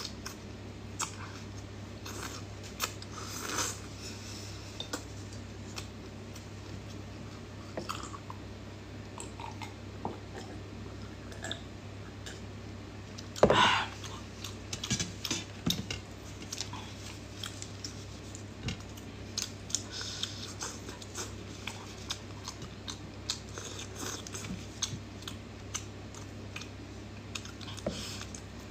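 Close-up chewing and biting of cooked shrimp, with many small wet mouth clicks and the rustle of gloved fingers. About halfway through there is one louder, brief burst as dipping sauce is poured over the shrimp from a glass dish.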